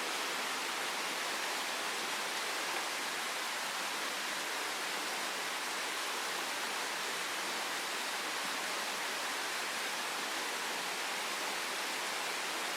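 Steady, even rushing noise with no distinct events, like water or air rushing.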